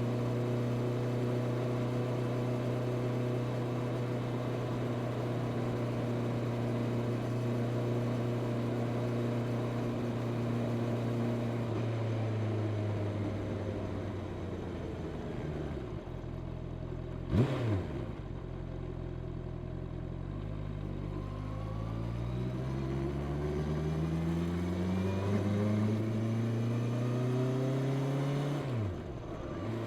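Honda CB650R's inline-four engine through its stock exhaust: it holds a steady cruise, then drops in pitch as the bike slows, with a brief loud burst of sound about halfway. It then accelerates with pitch climbing in steps through the gears, and falls back to a steady note just before the end.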